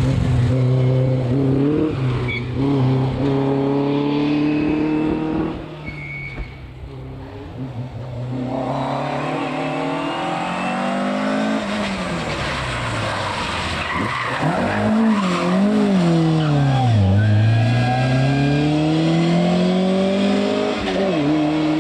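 Rally car engine revving hard and shifting up through the gears, dropping away for a few seconds, then coming back with the revs falling and rising again and again as it brakes and accelerates. Tyres skid along with it.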